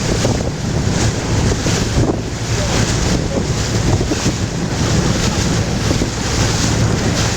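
Wind buffeting the microphone aboard a moving boat, over the wash of water along the hull, with a low steady hum underneath.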